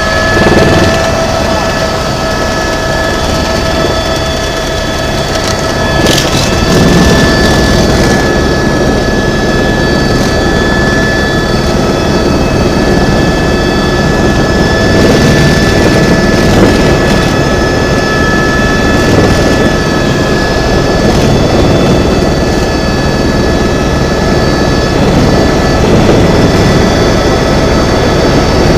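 Helicopter in flight: steady, loud engine and rotor noise with several steady whining tones over it.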